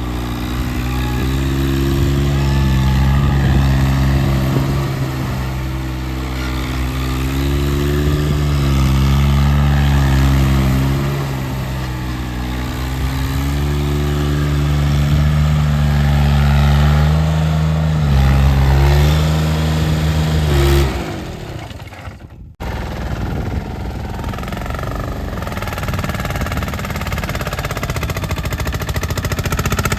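Small diesel tractor engine running under load, its pitch rising and falling as it is revved and eased off. About two-thirds of the way in the engine sound breaks off, and after a short gap a rougher, less even engine noise runs on.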